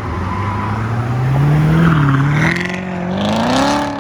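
Corvette Z06's V8 accelerating away, its pitch climbing steadily, dipping briefly about two seconds in, then climbing again.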